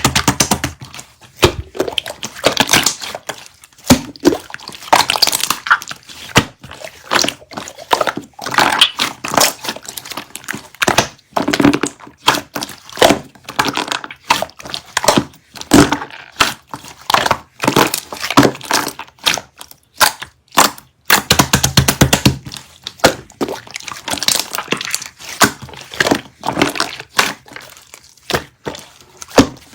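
Dense, irregular close-up crackling and clicking sounds, many small sharp snaps in quick succession with brief pauses between clusters.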